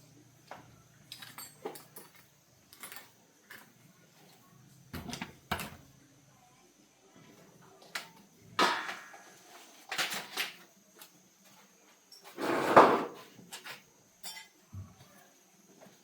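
Repair work sounds: scattered light knocks and clatters of tools and parts being handled, with two louder, longer noisy sounds, one about halfway through and a stronger one about three-quarters through.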